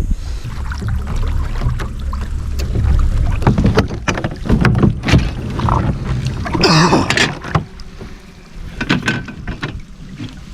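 Clicks, knocks and scrapes of handling and gear on a kayak, with a louder scraping burst about seven seconds in, over a low wind rumble on the microphone that fades near the end.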